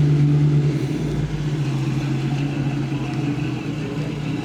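Car engine running steadily at low revs, easing a little in loudness about a second in.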